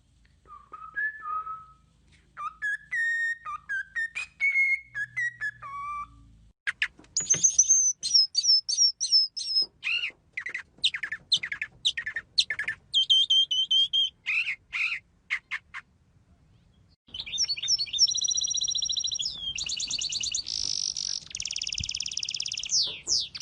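Birds singing. First come a few clear whistled phrases with sliding notes. Then a run of quick high chirps and trills follows, and after a short pause, a long, dense, very high rolling trill.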